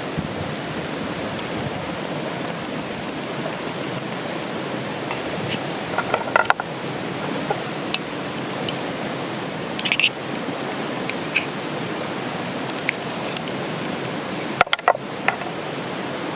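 Steady rush of a flowing river, with a few sharp clicks and clinks of camp gear being handled, bunched about six, ten and fifteen seconds in. A faint rapid ticking sits underneath near the start.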